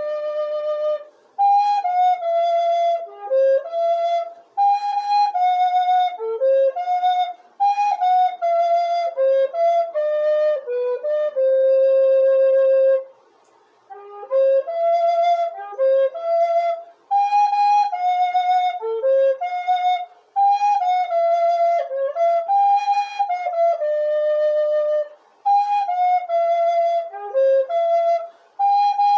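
Solo flute playing a slow hymn melody, one note at a time, in short phrases separated by breath pauses. A long held note near the middle is followed by a longer breath.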